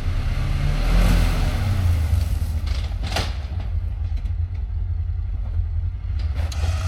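Side-by-side UTV engine running, revving up about a second in, as the stuck machine is winched against deep snow; a short sharp noise about three seconds in.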